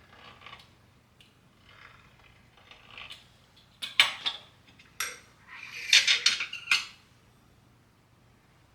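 Kitchenware clinking and clattering: soft handling noises, then a run of sharp, ringing clinks from about four to seven seconds in, as dishes and utensils are set down and knocked together.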